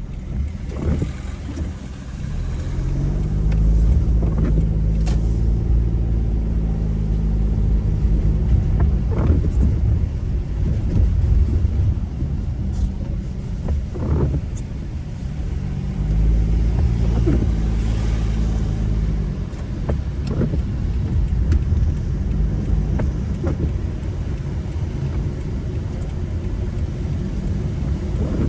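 Car driving on the road with a steady low rumble; twice the engine note rises and then levels off as the car accelerates through the gears, with a few short clicks.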